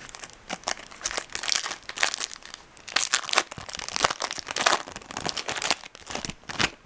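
Foil wrapper of a Topps Chrome card pack crinkling and being torn open by hand: an irregular run of sharp crackles.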